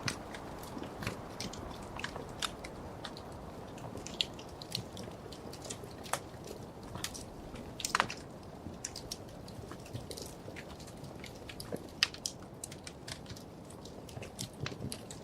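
Wood fire crackling in a fireplace: irregular sharp snaps and pops over a soft low rustle of burning, with louder pops about 8 and 12 seconds in.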